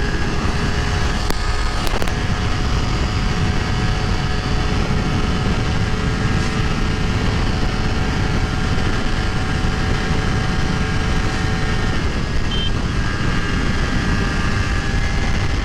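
Honda CBR250RR motorcycle engine running at steady revs on the move, under a heavy rush of wind noise on the helmet microphone. The engine note changes about twelve seconds in.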